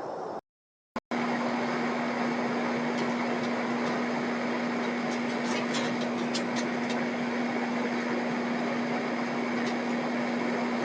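A steady machine hum with one constant tone over an even rushing noise, cut off for under a second shortly after the start. A few faint ticks come in the middle.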